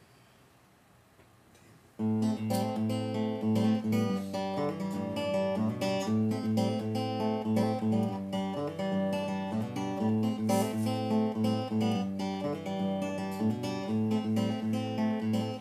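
Acoustic guitar intro, starting suddenly about two seconds in after a near-silent start, with picked and strummed chords ringing over a steady low bass note.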